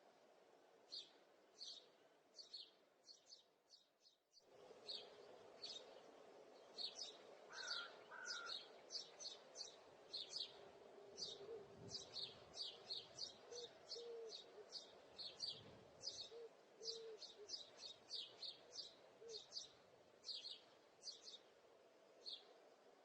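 Small birds chirping over and over: short high chirps, at times several a second, over a faint low steady hum. The sound drops out briefly about four seconds in.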